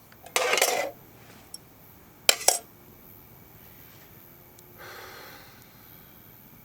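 Metal camp cookware being handled: a short rustling scrape, then two sharp metallic clinks in quick succession, then a softer rustle.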